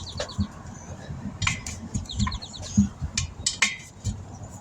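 Metal tools clinking and knocking against each other in a series of irregular sharp clanks, as in tire-repair tools being handled.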